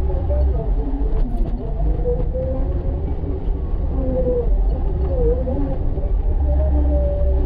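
Engine of a snow-plowing vehicle running steadily, its pitch rising and falling slightly as the load changes, over a heavy low rumble.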